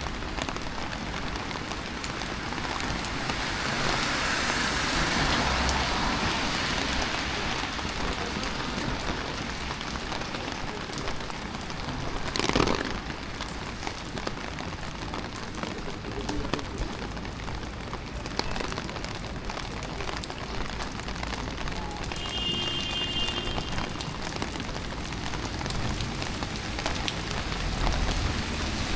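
Steady rain falling on a city street, a continuous pattering hiss that swells for a few seconds early on. About twelve seconds in there is one brief louder whoosh, and a short high tone sounds near the twenty-two-second mark.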